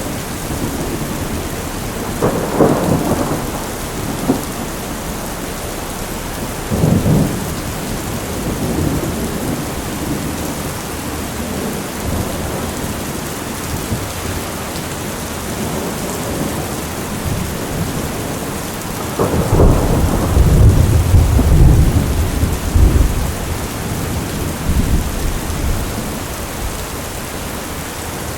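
Heavy rain falling steadily, with thunder: two short rumbles about two and seven seconds in, then a longer, louder rolling rumble starting about nineteen seconds in that dies away over several seconds.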